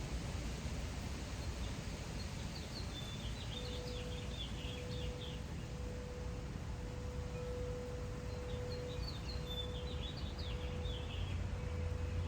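A songbird singing two short twittering phrases, one about three seconds in and another about eight seconds in, over a steady low outdoor rumble. A faint single held tone rings on from about three seconds in.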